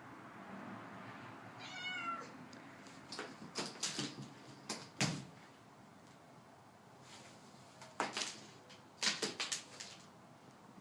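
A domestic cat gives one short meow about two seconds in, followed by two clusters of sharp clicks and knocks as she plays with a toy bird.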